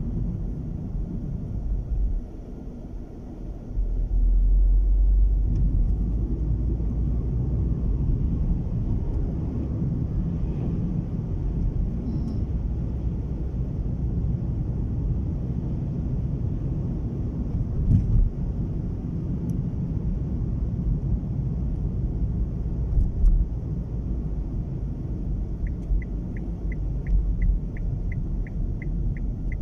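Inside a moving car's cabin, a low rumble of strong wind buffeting the car over road noise, dipping briefly and then swelling in a gust about four seconds in, with a couple of single knocks along the way. Near the end the turn-signal indicator starts ticking, about three ticks a second.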